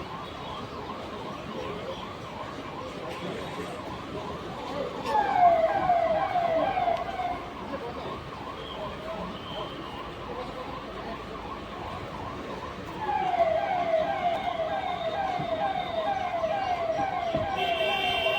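Escort vehicle sirens sounding a fast, repeating falling yelp, about two or three sweeps a second. It swells loud about five seconds in, fades, then grows loud again from about thirteen seconds on. A steady electronic tone joins near the end.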